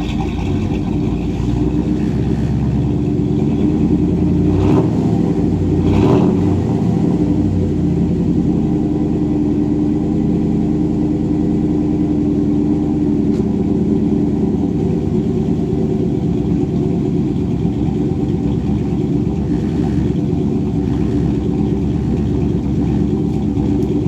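Chevy 350 small-block V8 with a small RV camshaft and stock throttle-body injection, idling steadily. It is blipped twice, about five and six seconds in, then settles back to idle.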